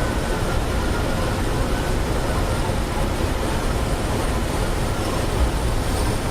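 Steady rush of airflow heard from inside a glider's cockpit in unpowered gliding flight: an even, deep noise with no change.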